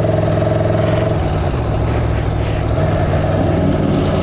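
Aprilia Tuono V4's stock V4 engine and exhaust running while the motorcycle is ridden, the engine note dipping and then rising again about three seconds in.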